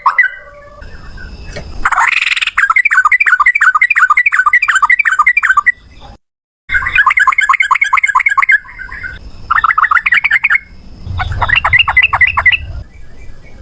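Yellow-vented bulbul (trucukan) singing its rapid 'ropel' runs: long strings of quickly repeated chirping notes, about eight a second, in four or five bursts separated by short pauses, with a brief silent break a little before the middle.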